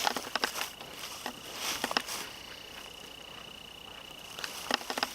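Footsteps rustling and crackling through dry weeds and brush, in irregular clicks that thin out mid-way. A thin, steady high-pitched tone runs through the middle stretch.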